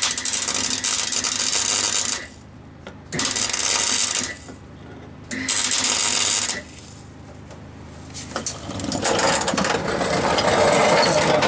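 MIG welder arcing in short tack-welding bursts, crackling and hissing for a second or more at a time, with a petrol generator running steadily underneath. Near the end a longer, fuller burst builds up.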